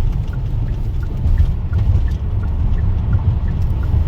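Car driving, heard from inside the cabin: a steady low road-and-engine rumble, with faint regular light ticks a few times a second.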